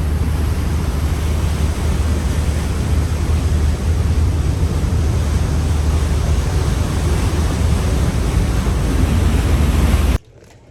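Wind rushing over the microphone on a moving boat, a loud steady rush with a deep rumble, mixed with the sound of the sea; it cuts off suddenly near the end.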